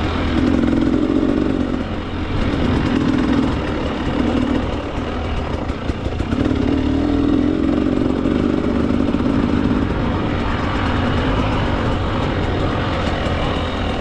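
Two-stroke dirt bike engine running under load on a trail, the revs swelling and easing repeatedly as the throttle is worked.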